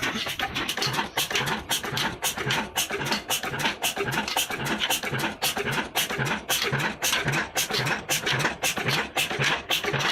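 35 HP Ruston Hornsby diesel engine running steadily, its clatter beating evenly about four to five times a second over a regular low thump.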